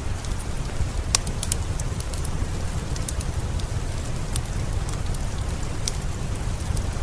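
Steady rain with a low rumble underneath, mixed with a wood fire crackling: scattered sharp pops, with a small cluster about a second in.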